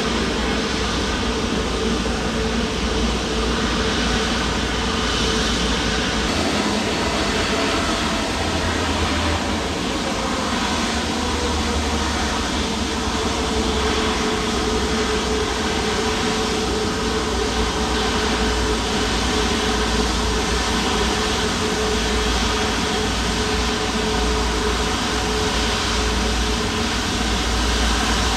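Jet airliner engines running with a steady rumble and hiss and a held whine that drifts slightly lower in pitch about ten seconds in.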